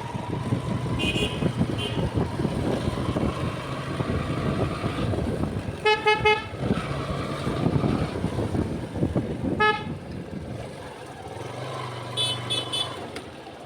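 Road traffic with vehicle horns honking in short beeps over a steady engine drone: three quick beeps about six seconds in, another near ten seconds, and higher-pitched short beeps near the start and near the end.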